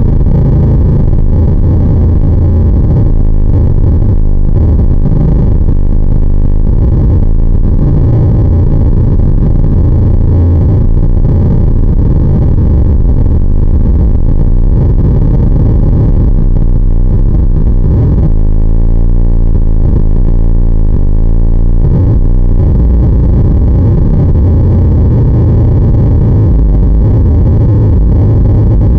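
Loud, heavily distorted droning noise, dense and low-pitched, with a stretch of wavering pitch sweeps around the middle.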